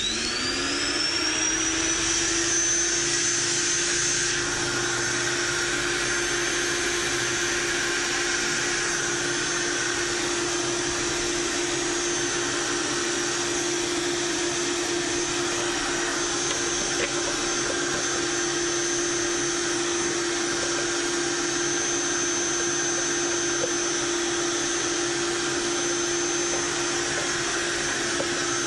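A small electric motor appliance spins up within about a second, then runs steadily with a high whine.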